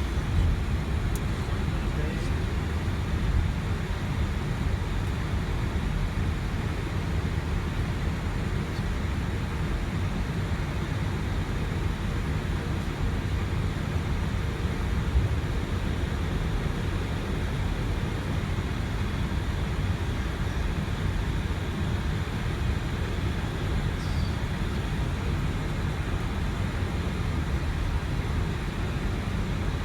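Steady low rumble and hiss inside the flight deck of an Airbus A320 in motion.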